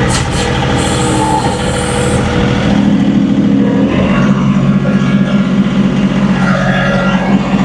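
John Deere 2038R compact tractor's diesel engine running steadily under load. Its note shifts about halfway through as the revs change.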